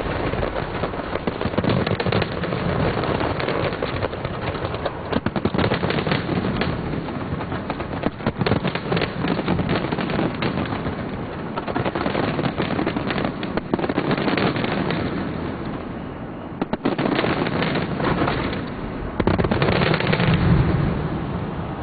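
Large fireworks display: a dense, continuous volley of bangs and crackles from many shells bursting at once. It eases off briefly about three quarters of the way through, then a loud barrage follows and fades away near the end.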